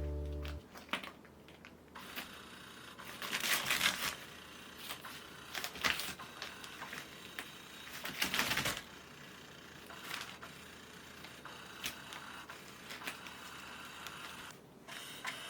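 Kittens playing with toys: scattered light taps, clicks and rustles, coming in small clusters about four, six and eight seconds in.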